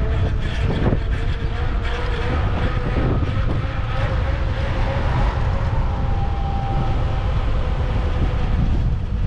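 Wind buffeting the microphone and tyre rumble from a bicycle being ridden. A faint steady whine runs underneath, with a brief higher tone joining it a little past the middle.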